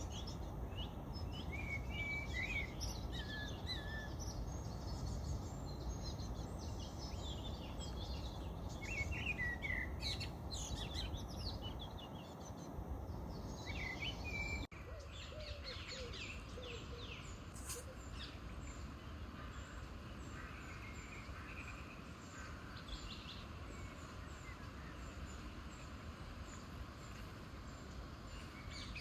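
Small birds chirping and singing in short bursts over a steady low background hum of city noise. About halfway through the sound drops out for an instant and resumes with a thinner low hum, the birds still calling.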